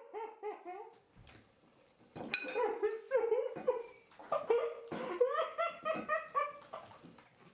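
A person laughing hard in quick, high-pitched repeated bursts, with a sharp clack about two seconds in.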